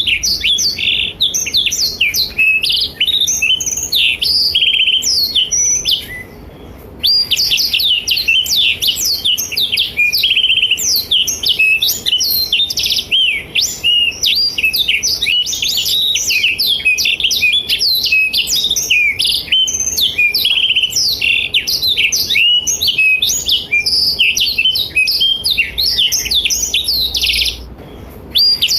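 Blackthroat (black-throated canary) singing a fast, continuous run of high notes, breaking off briefly about six seconds in and again near the end.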